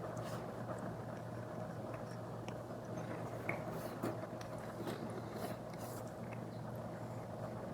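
Apple Pencil Pro tip drawing on an iPad screen fitted with a paper-like matte film: a steady soft scratching with scattered light ticks, over a steady low hum.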